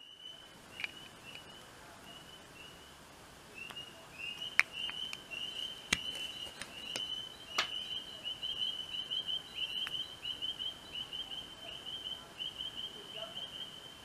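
A small bird chirping in the background, one short high note repeated over and over, coming faster, about three or four a second, from halfway through. A few sharp clicks from the plastic coin capsules being handled are the loudest sounds.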